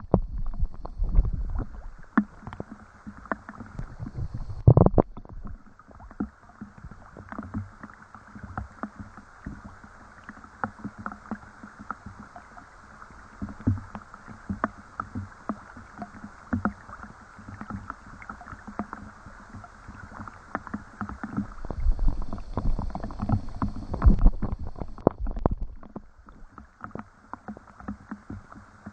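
Rain falling, with dense, irregular ticks of drops landing close by over a steady hiss. Low rumbles of wind on the microphone come near the start and again about three-quarters of the way through.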